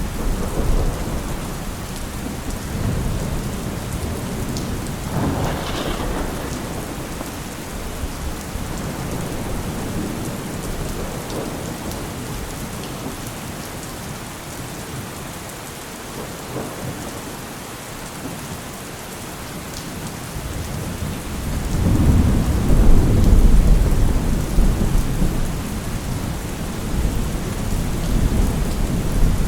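Steady heavy rain with thunder rumbling throughout: a sharper crack with rumble about five seconds in, a quieter lull in the middle, then a loud, deep rumble of thunder swelling about two-thirds of the way through.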